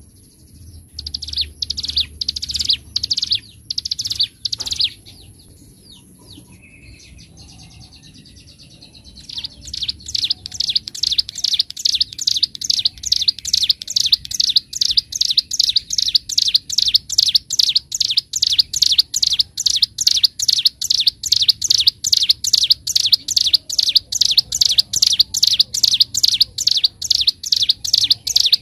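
Ciblek gunung (a prinia) calling: a few separate sharp notes, a pause of a few seconds, then a long unbroken run of rapid, evenly repeated chirps, about three to four a second.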